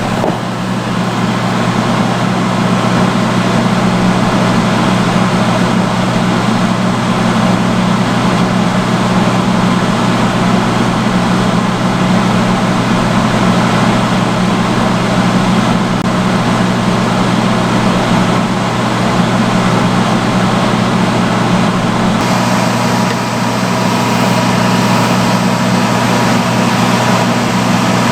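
Vintage salon hood hair dryer running steadily on its highest setting: a loud low motor hum under a rush of blown air. About three-quarters of the way through, the hiss turns brighter and a faint high tone joins it.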